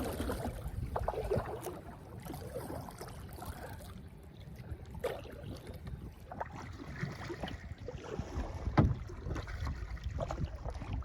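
Kayak paddle strokes dipping and splashing in lake water, with drips running off the blades, over low wind rumble on the microphone. One sharper, louder knock or splash about nine seconds in.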